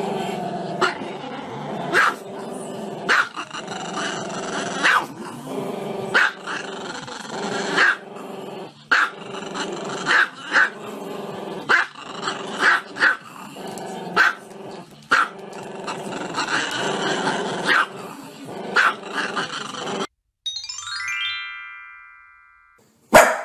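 Small black-and-tan dog howling with its head raised, in long drawn-out cries broken by sharp yaps about once a second. About twenty seconds in it cuts off, and a short chiming sound effect with stepped tones follows, ending in a sharp hit.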